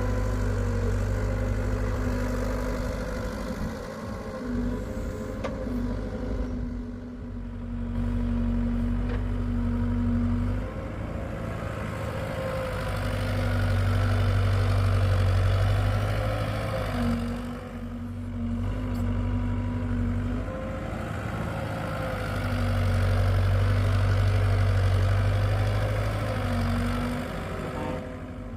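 Hitachi EX75UR excavator's diesel engine running steadily, growing louder and then easing back twice in slow swells as it takes hydraulic load while digging.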